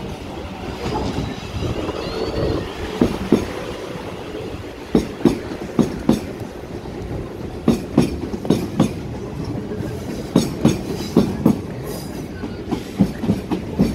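Passenger train passing close by over the level crossing: a steady rolling rumble with sharp wheel clacks over the rail joints, coming in quick pairs and starting about three seconds in.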